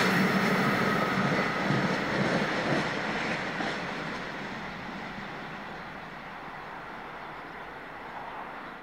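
Container freight train's wagons rolling away into the distance, the wheel-on-rail noise fading steadily. A thin high ringing from the wheels dies out within the first couple of seconds.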